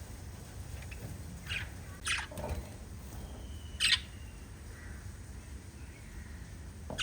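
Pet budgerigars giving a few short, separate chirps and squawks, the loudest about four seconds in, over a low steady background hum.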